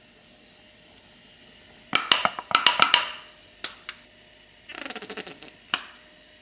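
Hard objects clinking and rattling with a short ringing tone: a quick run of clinks about two seconds in, and a faster rattle near the end.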